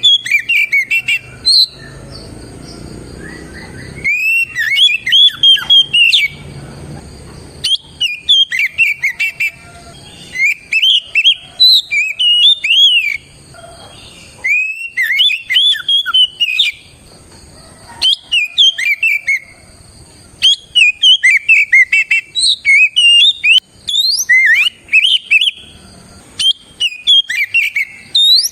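Oriental magpie-robin (kacer) in full song: loud, varied phrases of sharp whistled notes, each burst lasting a second or two, separated by short pauses.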